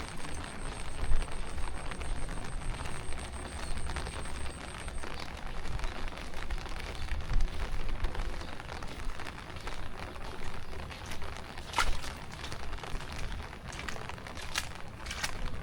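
Heavy tropical rain falling steadily, an even hiss of drops with a low rumble underneath and a few sharper close drop hits near the end.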